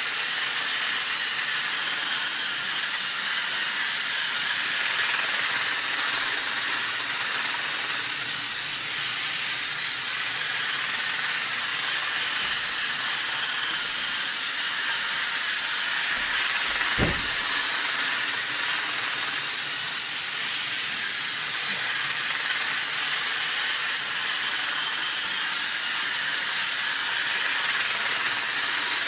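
Henry the Blue Engine toy train running laps on its track: a steady, even whirring hiss, with one short low thump about 17 seconds in.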